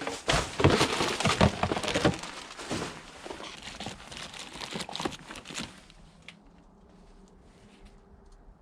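Rummaging through a rubbish bin: rustling and crinkling with a run of knocks and clatters as items are moved about, dying down after about six seconds.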